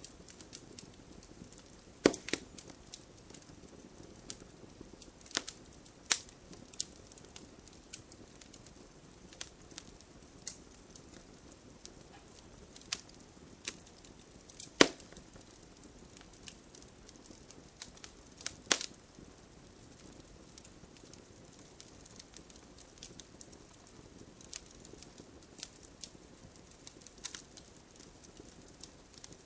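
Fireplace crackling, with irregular sharp pops over a low steady hiss; the loudest pops come about two, fifteen and nineteen seconds in.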